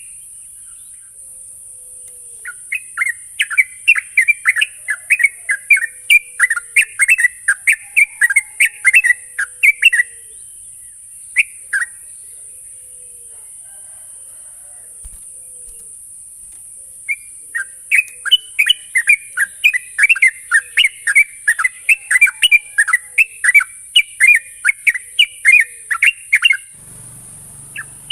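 Yellow-vented bulbul song: long, rapid bouts of bubbly chirping notes, the fast continuous 'ngropel' style used as a lure recording for caged bulbuls, with a pause of several seconds in the middle. A steady high hiss runs underneath.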